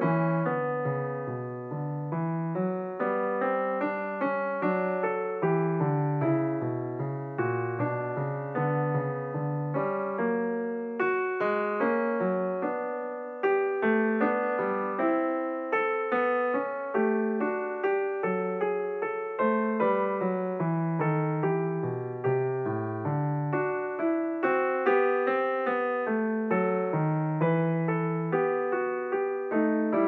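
Background piano music: a steady run of notes over a moving bass line.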